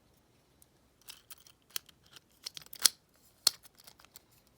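Small metal deadbolt parts clicking and knocking as they are handled: a few irregular clicks, the loudest two a little before three seconds in and at about three and a half seconds.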